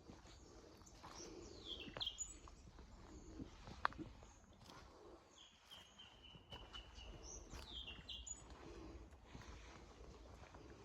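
Faint rainforest birds calling: several quick falling whistles and one long drawn-out whistle in the middle. A sharp click about four seconds in, with a few softer taps.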